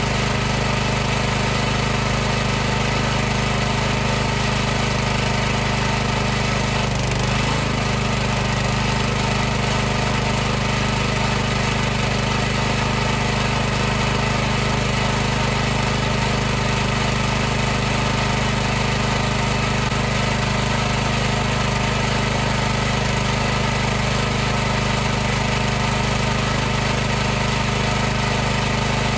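High-pressure washer running steadily: its pump motor gives a constant, unchanging drone with a hiss over it.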